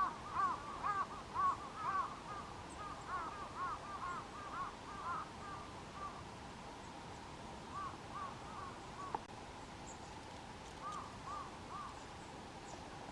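A group of birds calling: many short rise-and-fall notes overlapping each other, thick over the first few seconds and then thinning to scattered calls, with a few faint high ticks near the end.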